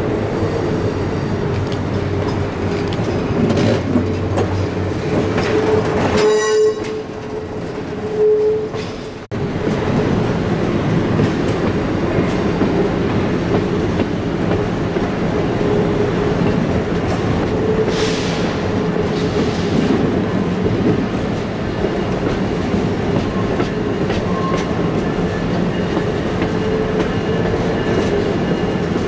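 Train rolling past on the rails: a steady loud rumble and rattle of wheels and cars. There is a brief dip and break about six to nine seconds in, then the same running sound resumes.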